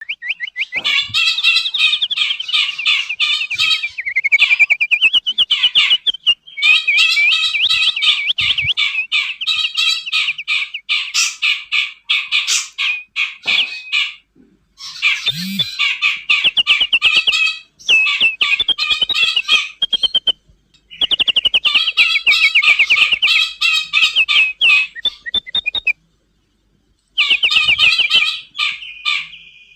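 Songbirds singing in a dense run of rapid chirps, trills and whistled phrases, a 'masteran' recording for training caged songbirds, in stretches broken by brief pauses and cutting out fully for about a second near the 26-second mark.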